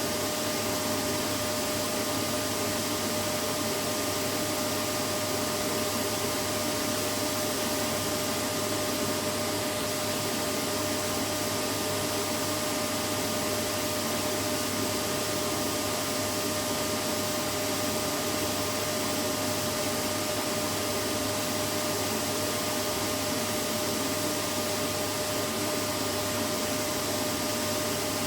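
Vacuum cleaner running steadily: an unchanging rush of air with a constant motor whine.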